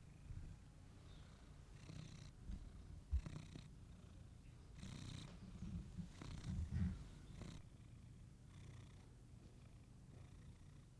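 A domestic cat purring close to the microphone, the purr swelling and easing with each breath. A single short low knock about three seconds in.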